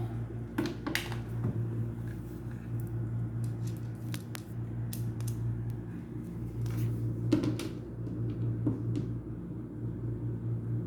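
Scattered clinks and knocks of metal parts being handled while a jammed washing-machine motor is taken apart, over a steady low hum.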